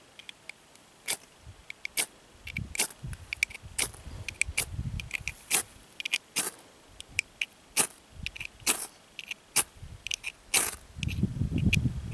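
Ferrocerium fire steel (ferro rod) struck again and again with its scraper to throw sparks onto dry hay: a long, irregular run of short, sharp scrapes, more than a dozen, with low rustling of handling between them, heaviest near the end.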